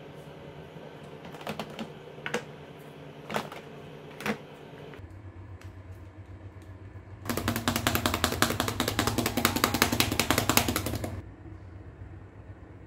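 A few light, separate clicks of clear plastic moulds being handled. Then about four seconds of dense, rapid crackling from fried rice sizzling in a wok, the loudest sound, which cuts off suddenly.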